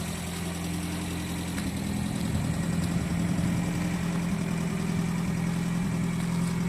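Toyota Carina's four-cylinder 4A-GE engine idling steadily with all four headlights switched on, not stumbling or stalling now that its timing belt has been set correctly. It gets a little louder about two seconds in.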